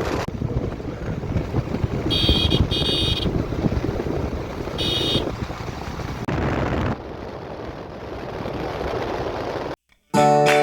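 Motorcycle ride with rumbling engine and wind noise, and a horn beeping twice about two seconds in and once more about five seconds in. The sound cuts off suddenly near the end, and music starts.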